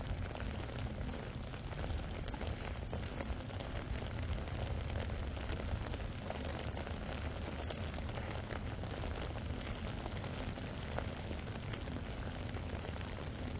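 Steady rain pattering on an umbrella held overhead, a constant hiss full of small drop ticks.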